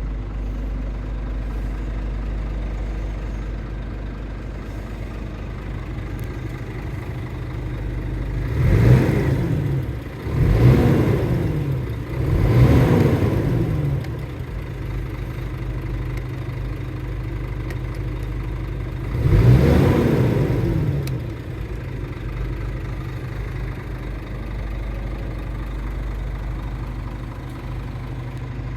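Scania R450 truck's 13-litre inline-six diesel idling steadily, revved three times in quick succession and then once more several seconds later, each rev rising and falling in pitch.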